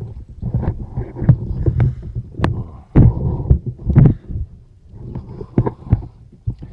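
Irregular low rumbling and thumps on the microphone, with a few sharp clicks, as the handheld camera is moved in close.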